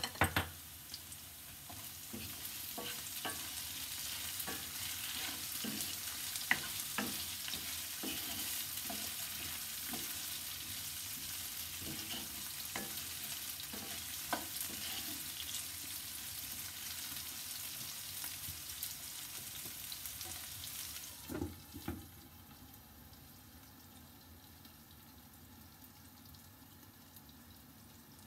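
Diced potato and turnip sizzling in hot oil in a nonstick frying pan while a spatula stirs them, with many small scrapes and taps against the pan. About three-quarters of the way through, a couple of knocks as the lid goes on, and the sizzle drops to a faint, muffled hiss.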